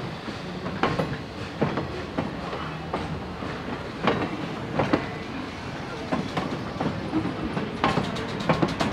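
Train running on jointed rail: wheels knock over the rail joints in an uneven clickety-clack about once a second, over a steady rolling rumble.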